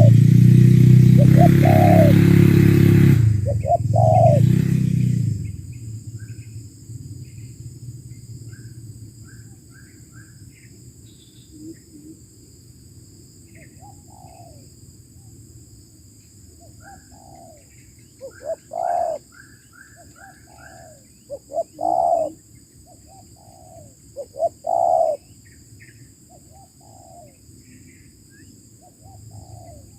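Spotted doves cooing in repeated phrases, loudest about two-thirds of the way through, with small birds chirping in between. A loud low rumble dies away in the first five seconds.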